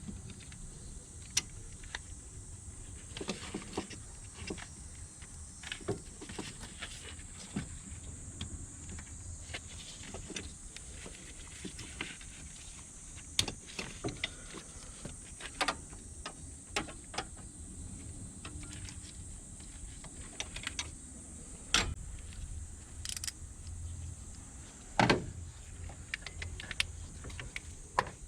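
Irregular light clicks and knocks, typical of hand tools and parts being handled during repair work on a car, over a faint steady high hiss. The louder knocks come about two-thirds and nine-tenths of the way through.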